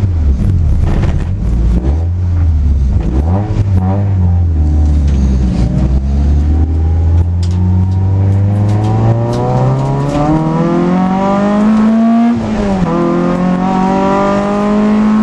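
Citroën AX 16v engine heard from inside the cabin. It pulls at low revs for the first few seconds, then accelerates with a steadily rising pitch. The revs drop sharply on an upshift about twelve seconds in, climb again, and drop on another shift at the end.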